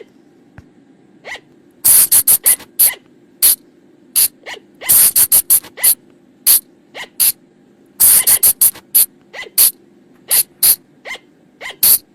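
Sunda colugo (flying lemur) calling: short, sharp high-pitched calls repeated at irregular intervals, some single and some in quick runs of several, over a faint steady hum.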